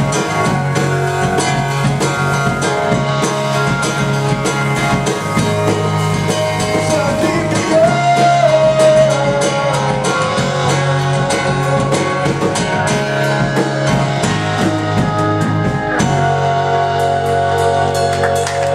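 A rock band playing live: strummed acoustic guitar over a drum kit. About sixteen seconds in, the drums stop and the last chords ring out.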